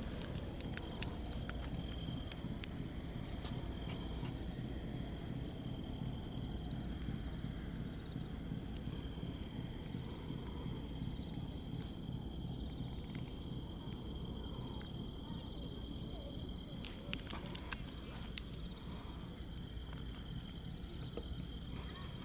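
Insects trilling steadily at two high pitches, over a low, steady outdoor rumble.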